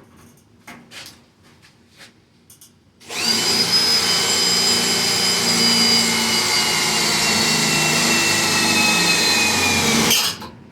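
A few light clicks and knocks, then a power drill spins up about three seconds in. It runs steadily for about seven seconds, its whine sagging slightly as it bites into sheet steel while drilling out spot welds, and then stops.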